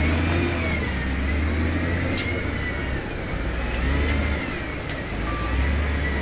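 Heavy diesel construction machinery running, a deep engine drone that dips and picks up again, with a whine that wavers up and down in pitch.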